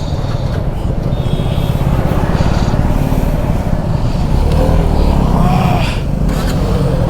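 Motorcycle engines running, with a low, pulsing exhaust rumble. A louder, deeper engine note comes in about four and a half seconds in.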